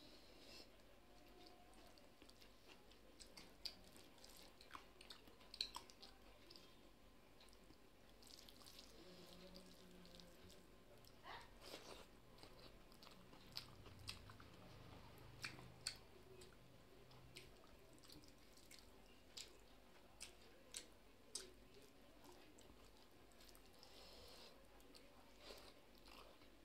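Faint chewing and wet mouth clicks of someone eating hand-mixed rice, with scattered sharp little ticks. Fingers work the rice on a steel plate.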